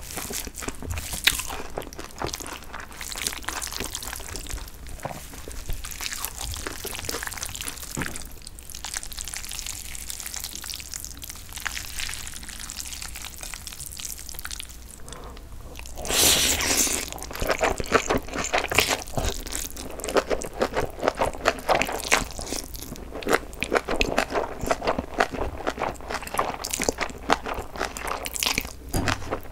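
Close-miked eating of spicy Korean cold noodles (jjolmyeon) with bean sprouts: crisp crunching and wet chewing in quick, irregular clicks. About halfway through there is a louder burst as a mouthful of noodles is slurped, and after it the chewing and crunching get louder and denser.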